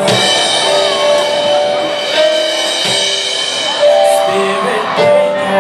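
Live gospel band playing: held chords on piano over a drum kit.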